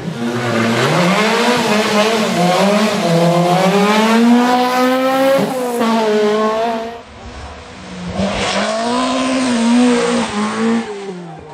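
Rally car engine at full throttle, its revs climbing and dropping again and again with gear changes and lifts off the throttle. About seven seconds in, the sound drops away briefly, then the revs climb again and fall off near the end.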